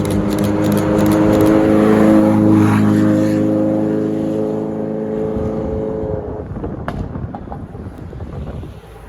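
A supercar's engine running as it drives past and away, loudest about two seconds in and fading out after about six seconds.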